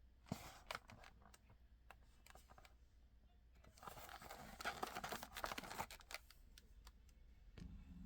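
Faint clicks and crinkling of a diecast model car's packaging being handled as the car is taken out of it, busiest from about four to six seconds in.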